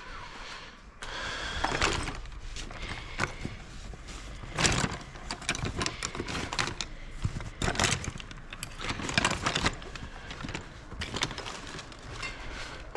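Irregular clicks, scrapes and rattles of a flathead screwdriver and small metal parts working on a car door's trim and panel, with a few sharper knocks in the middle.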